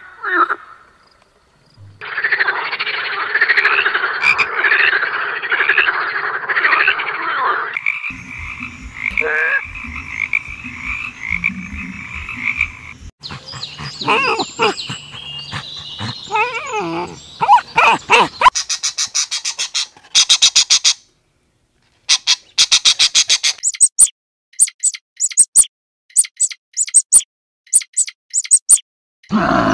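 Frogs croaking: a run of frog calls, ending in a series of short, rapidly pulsed trills with brief pauses between them.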